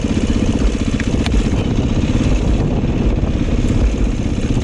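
Dirt bike engine running at low, steady revs, its firing pulses dense and even. A couple of sharp clicks come about a second in.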